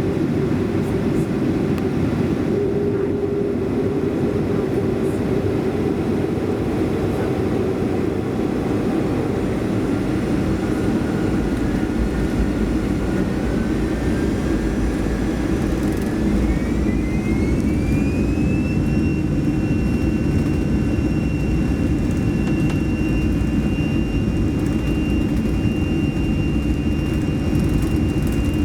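Boeing 737-300's CFM56-3 jet engines heard from inside the cabin, spooling up: a whine climbs in pitch for several seconds, then holds steady over a heavier rumble as the engines reach takeoff thrust.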